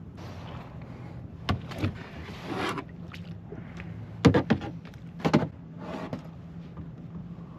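Kayak paddle strokes: water swishing off the paddle blades, with a few sharp knocks in quick pairs, over a steady low hum.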